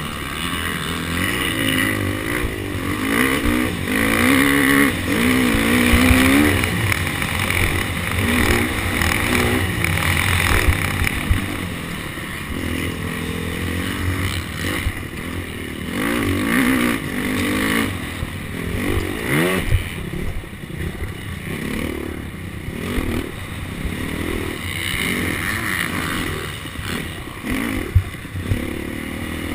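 KTM SX250F's 250 cc four-stroke single-cylinder motocross engine revving up and falling off again and again as the bike is ridden around a track, with a sharp thump near the end.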